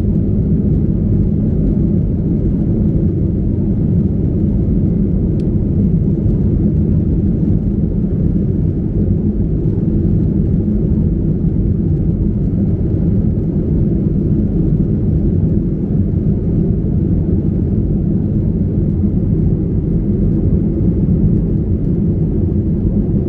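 Steady low rumble of a Boeing 737-800 in flight, heard from inside the cabin: engine and airflow noise that stays even throughout.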